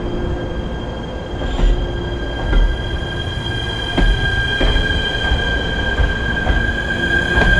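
A train running on the rails close by, with a low rumble, a steady high-pitched squeal or whine that grows louder, and wheels knocking over rail joints about once a second.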